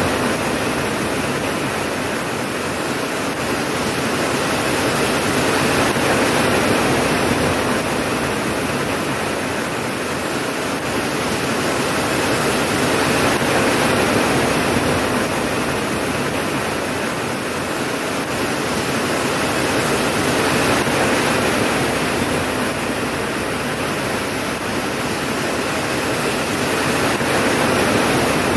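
Steady heavy rain, a dense even hiss that swells gently and eases back about every seven seconds.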